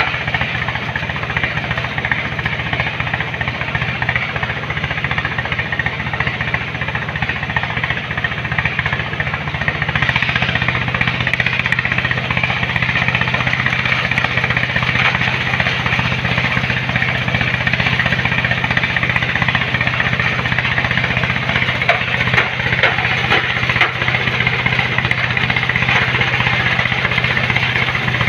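Engine of a heavy sand-loading machine running steadily, getting louder about ten seconds in.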